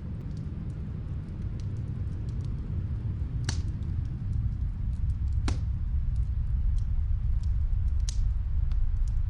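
Steady low rumble of snowstorm wind with the sparse crackles and pops of a wood fire over it, three louder pops coming about three and a half, five and a half and eight seconds in.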